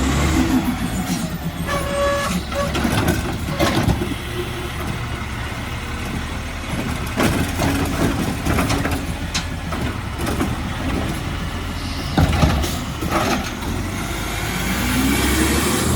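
Garbage truck running, with scattered clanks and knocks over its engine, and the engine revving up near the end.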